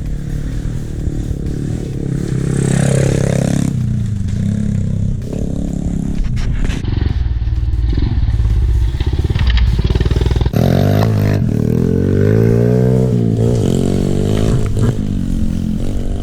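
Pit bike engine revving hard under throttle. It is rough and clattery for the first several seconds, then from about two-thirds of the way in the pitch rises and falls repeatedly as it accelerates and backs off. The engine is new and still being run in.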